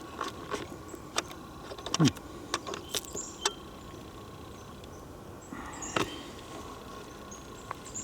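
Scattered sharp clicks and crackles from walking through forest litter with a handheld camera: a cluster in the first three and a half seconds with a short falling creak about two seconds in, then a quieter stretch and one more click about six seconds in.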